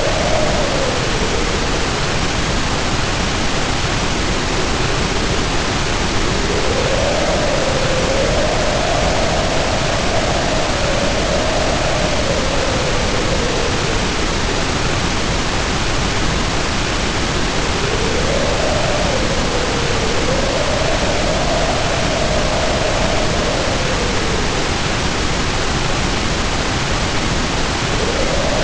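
Heavy rain pouring as a steady, dense hiss, with wind howling over it. The howl rises and falls in slow moaning swells, about three across the stretch, roughly ten seconds apart.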